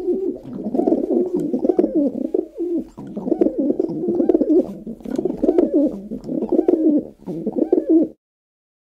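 Pigeons cooing: a run of low, throaty, warbling coos repeated over and over, cutting off suddenly about eight seconds in.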